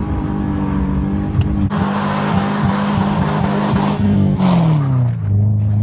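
Subaru Impreza RS's flat-four engine running at high, steady revs with the throttle held to the floor as the all-wheel-drive car spins donuts on snow. About two seconds in, a rushing hiss of the wheels spinning through the snow joins it. Past four seconds the revs fall away and settle low.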